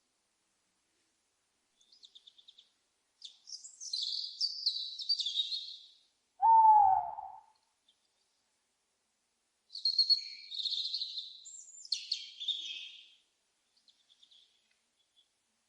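Owl and bird calls: bursts of high-pitched chirping and screechy calls, and one loud, short call that drops in pitch about six and a half seconds in.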